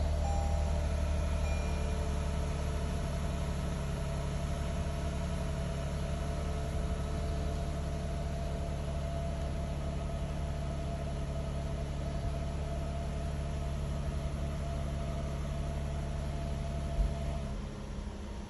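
Toyota Land Cruiser LC300's 3.5-litre twin-turbo V6 idling steadily after start-up, easing down slightly over the first few seconds. Near the end a single sharp knock, after which the engine's low hum falls away.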